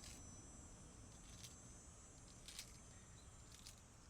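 Near silence: faint outdoor background with a few soft clicks or rustles spread through it.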